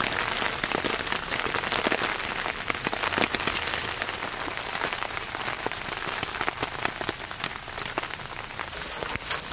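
Steady rain falling on a Sea to Summit tent's rainfly: a constant hiss with many sharp individual drop taps.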